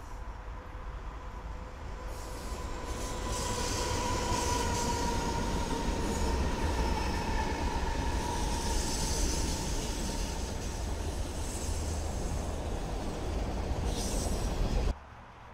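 Freight train led by several diesel locomotives passing close by: engine rumble and wheel-on-rail noise, growing louder over the first few seconds, with a thin steady wheel squeal through the first half. The sound cuts off suddenly near the end.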